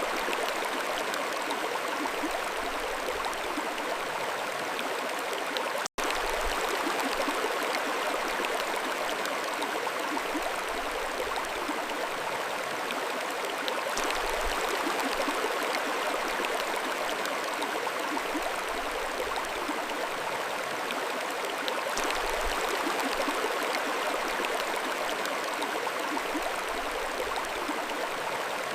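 Mountain stream flowing steadily over stones, a continuous rushing and gurgling of water, with a split-second gap about six seconds in.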